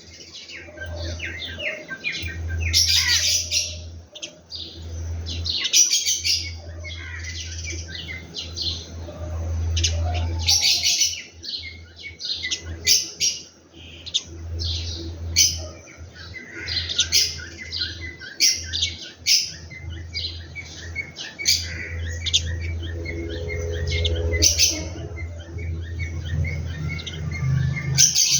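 Birds chirping in many short, quick bursts over a steady low hum.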